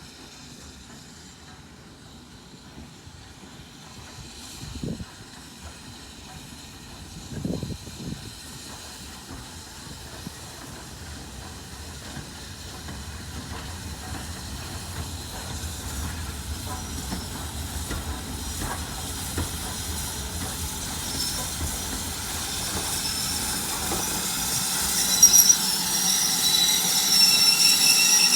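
A train drawing near and growing steadily louder, with high wheel squeal and hissing in the last few seconds. There are two short low thumps in the first third.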